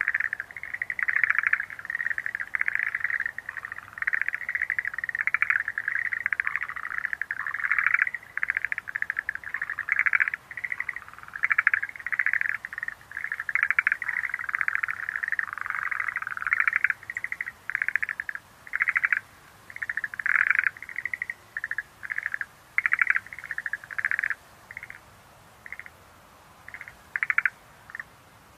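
Chorus of Schlegel's green tree frogs (Rhacophorus schlegelii): many overlapping short pulsed calls, thinning to a few separate calls near the end.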